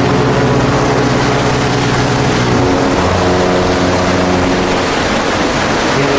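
Loud steady rushing noise of a boat at sea, with a low engine drone whose pitch changes in steps about every three seconds.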